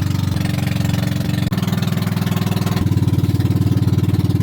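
Boat engine running with a low, rapidly pulsing note; the note changes abruptly twice.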